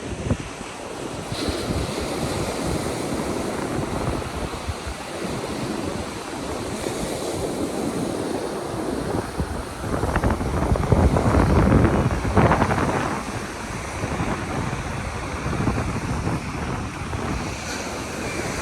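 Ocean surf breaking on the beach with wind buffeting the microphone, swelling louder for a few seconds around the middle.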